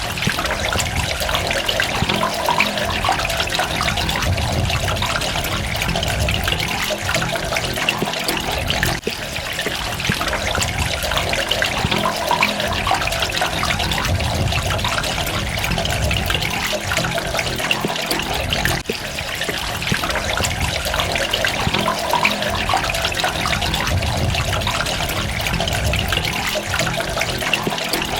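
Steady running and trickling water, a continuous splashing rush that dips briefly twice.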